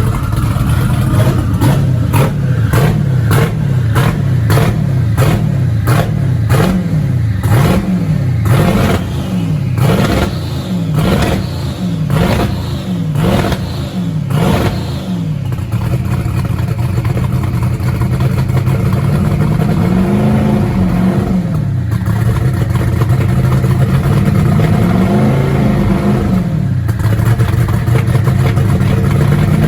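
Twin-turbo LSX V8 in a 1979 Trans Am being blipped on the throttle again and again, about every three quarters of a second, for the first half. It then settles to a steady idle with a few slow, gentle revs. The engine is freshly rebuilt, with new lifters and pushrods, and is being run in its first fire-up.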